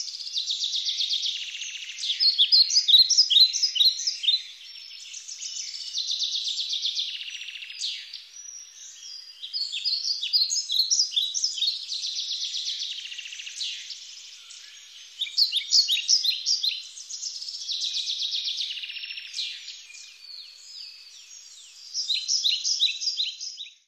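Songbirds singing: buzzy trills alternating with quick runs of short high chirps, in bouts every few seconds. The sound cuts off suddenly at the end.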